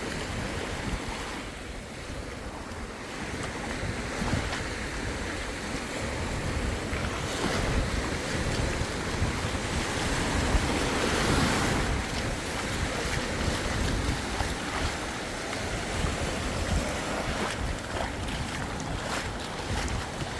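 Sea surf washing onto the beach, with wind buffeting the microphone. The wash swells loudest about ten seconds in.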